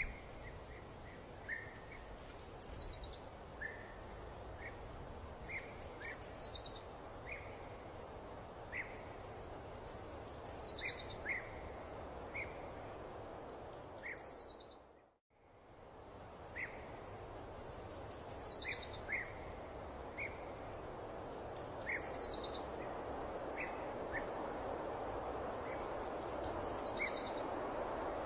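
Outdoor birdsong ambience: a bird repeats a short, high, descending phrase every two to four seconds, with scattered short chirps, over a steady rushing background noise. About halfway through, everything fades out briefly and comes back.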